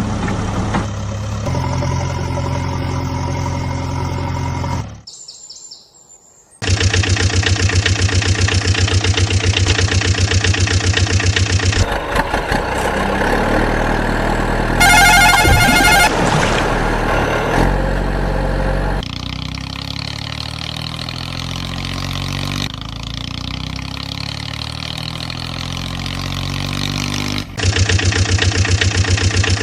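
Tractor engines running, idling and revving, with abrupt changes from one engine sound to another. The sound drops out briefly about five seconds in, and a short warbling tone sounds about fifteen seconds in.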